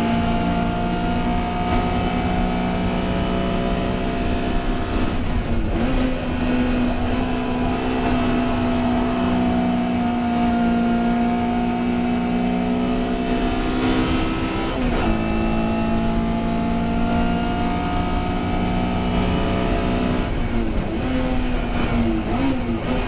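Touring race car engine running at high revs under racing load, with brief breaks in the engine note about five seconds in and again about fifteen seconds in, and the pitch wavering near the end.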